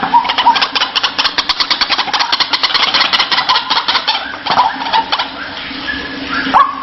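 White-breasted waterhen (ruak-ruak) calling: a fast, harsh run of many pulses a second for about five seconds, then a few short notes with a rising hook near the end.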